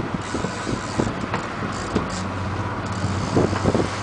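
Boat engine running with a steady low hum, under wind and sea noise, with a few scattered knocks and brief hissing surges.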